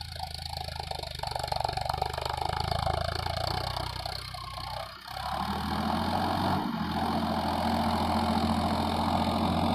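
Farmtrac 60 PowerMaxx tractor engine running steadily under load while pulling a harrow through the soil, with a brief dip in the sound about five seconds in.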